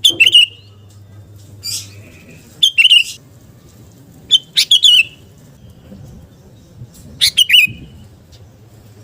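Sooty-headed bulbul (kutilang) singing loud short phrases of quick whistled notes, one every two to three seconds, with a single harsher note about two seconds in.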